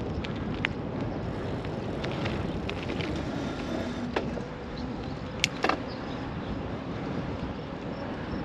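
Steady rush of road traffic and wind, heard from a bicycle riding along a roadside, with a few sharp clicks about halfway through.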